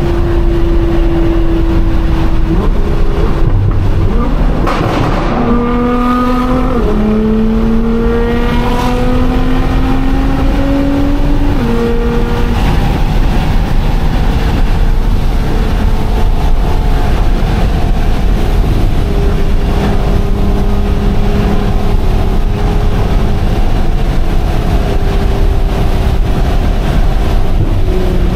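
Loud twin-turbo 3.8-litre V6 of a Nissan R35 GT-R with full bolt-on modifications, heard from inside the cabin over steady road rumble. About five seconds in there is a brief rush of noise, then the engine pitch climbs and drops twice as it accelerates and shifts up. It then settles to a steady cruise.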